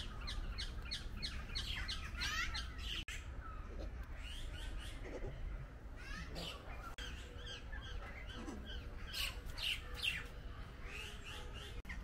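Birds chirping: many short, quick chirps, densest at the start and again about three-quarters through, over a steady low rumble.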